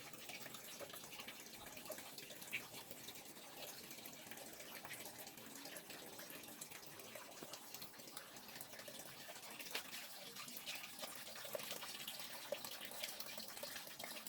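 Faint dripping and trickling water: a soft, even hiss scattered with small irregular drips and ticks.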